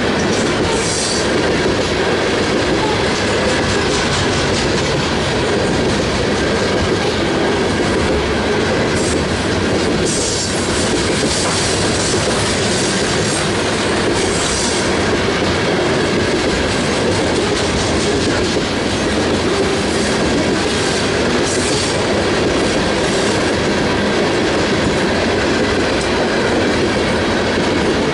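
Train cars rolling steadily past at close range, their wheels clattering over the rail joints.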